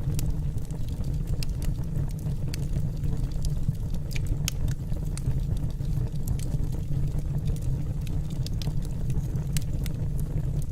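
Wood fire burning in a fireplace: a steady low rumble of flame with irregular crackles and pops from the logs, a few sharper pops about four seconds in.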